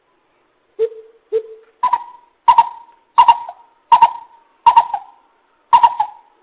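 Coucal hooting: a series of deep, hollow notes, two lower ones first, then louder, higher notes about every 0.7 s.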